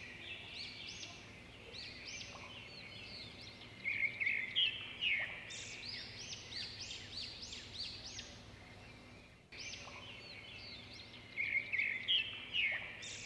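A chorus of songbirds chirping, many short overlapping notes, cutting out briefly about nine and a half seconds in.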